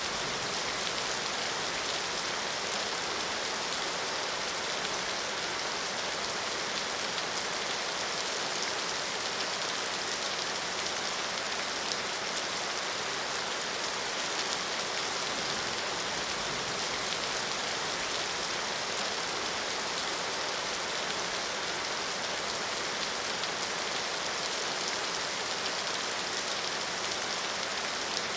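Steady rain falling, a constant hiss of many drops spattering on surfaces.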